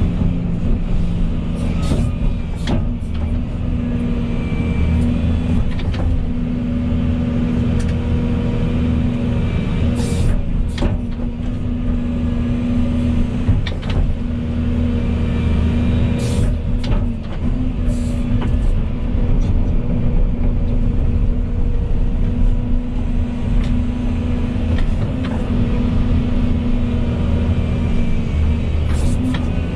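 Volvo EC220E excavator's diesel engine running steadily under work, with occasional sharp knocks and clatters.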